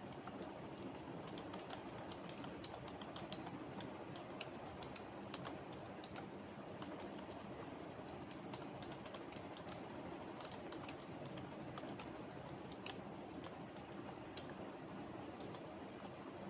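Computer keyboard typing: irregular runs of keystroke clicks, with short pauses between them, over a steady background noise.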